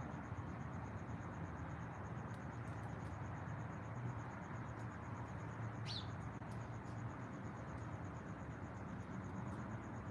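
Natural outdoor ambience: a steady, evenly pulsing insect trill, with one quick bird chirp sweeping downward about six seconds in, over a steady low background hiss.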